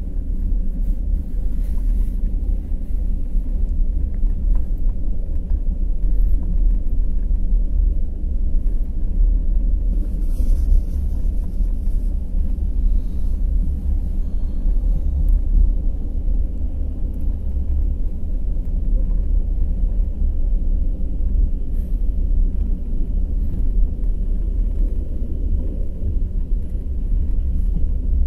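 Passenger express train running at speed: a steady low rumble of wheels on rails, with a few faint clicks over it.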